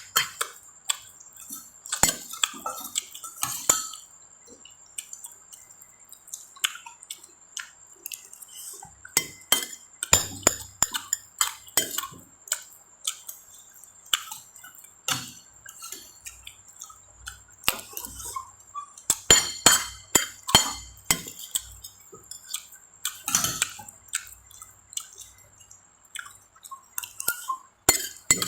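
Close-miked eating sounds: irregular clicks and clinks of a utensil against a dish while fried rice is eaten.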